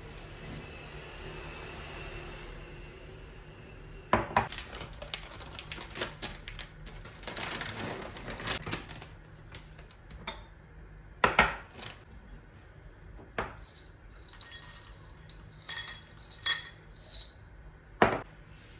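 Kitchen dishes and cutlery clinking and knocking in separate strikes, the loudest about 4, 11 and 18 seconds in, after a soft steady hiss in the first few seconds.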